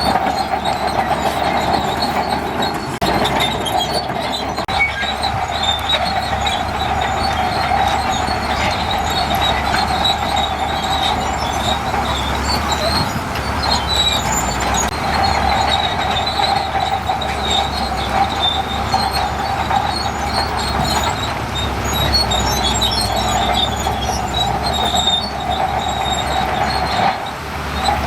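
Tracked bulldozer working continuously, with a steady high metallic squeal over a low rumble.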